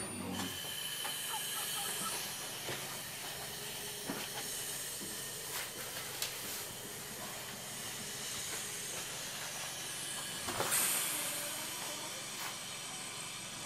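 Quiet, steady hiss of a train running, heard from inside a passenger carriage, with a few faint knocks and a brief louder rush near the end.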